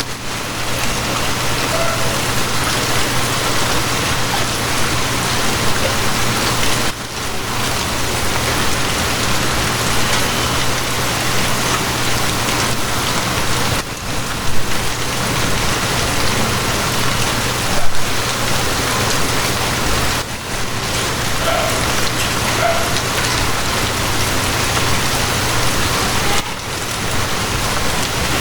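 Steady rain with a constant low hum beneath it. The sound dips briefly about every six or seven seconds.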